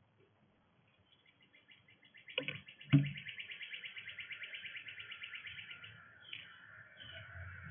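Songbird giving a rapid trill of chirps, about ten a second, for several seconds. Two sharp knocks come about two and a half and three seconds in, the second the loudest.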